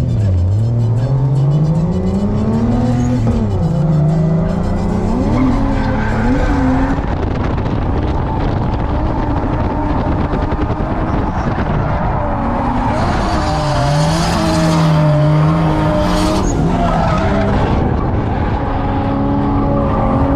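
Drift car engine revving up and falling back again and again as the car is driven through a drift, with tyres squealing and skidding, loudest in the second half.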